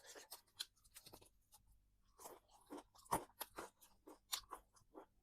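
Close-up chewing of crispy fried chicken: irregular crunches several times a second, the loudest about three seconds in.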